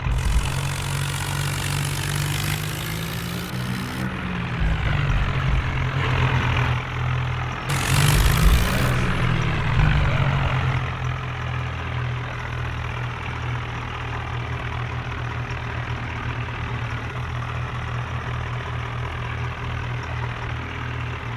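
Tractor diesel engine running steadily, its pitch rising and falling twice as it is revved. There is a loud rushing noise at the start and again about eight seconds in.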